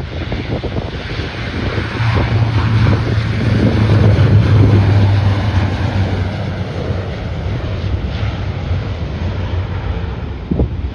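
Aircraft engines passing close by, a steady low hum that swells to a peak about four seconds in and then fades, under heavy wind buffeting on the microphone. A short knock near the end.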